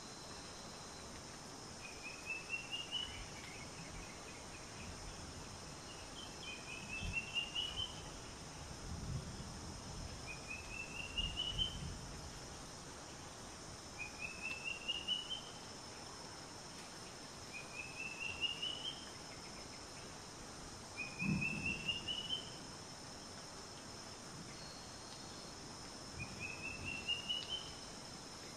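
A bird repeating a short, rising trill about every four seconds over a steady background hiss, with a few low rumbles in between.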